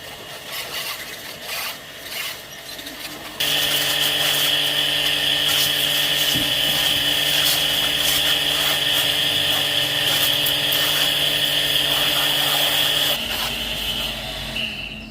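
Hand work scraping and rubbing for a few seconds, then an electric power tool switches on abruptly and runs at a steady high whine for about ten seconds before winding down near the end.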